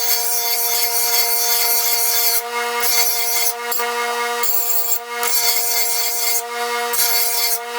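Bench grinder running with a steady motor hum while a steel lawn mower blade is ground against the wheel to sharpen it, a harsh hissing grind that breaks off briefly several times as the blade is moved.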